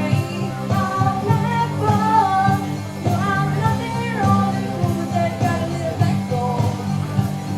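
Children's vocal group singing a country song with instrumental accompaniment.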